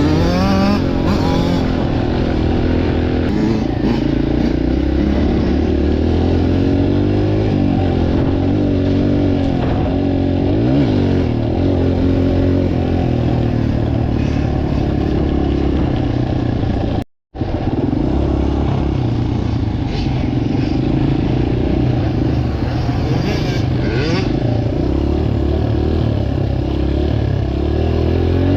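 Dirt bike engines running and revving, several pitches rising and falling over one another. The sound cuts out abruptly for a moment about two-thirds of the way through, then resumes.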